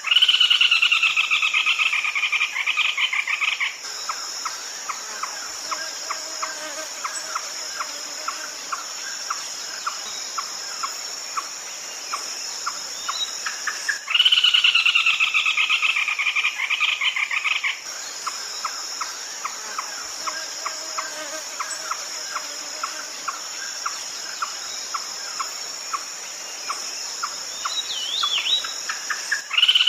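Red-legged crake calling in a repeating pattern: a loud falling trill of rapid notes lasting about four seconds, at the start and again about fourteen seconds in, with steady short pek notes about two a second in between. A high, steady insect drone runs under it.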